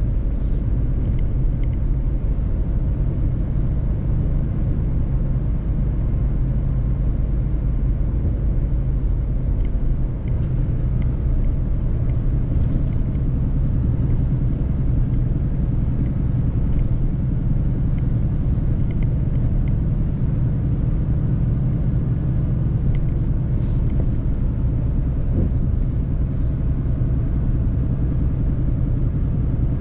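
Mercedes-Benz truck driving, its engine running at a steady drone under the road noise, with a few faint ticks.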